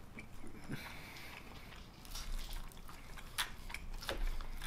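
Quiet chewing of mac and cheese: soft, wet mouth clicks and smacks, a few sharper ones in the second half.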